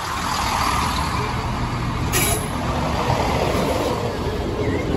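A train running over the crossing with a steady rumble and noise. There is a short burst of air hiss about two seconds in.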